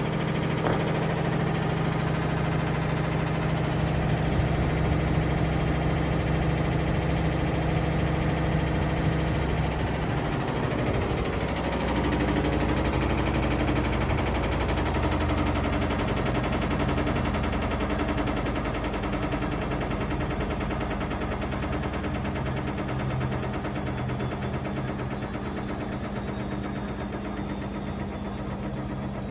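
A Miele Professional and a Bosch washing machine running with a steady motor hum and several held tones. The pitch of the hum shifts about a third of the way in, and the sound slowly gets quieter over the last part.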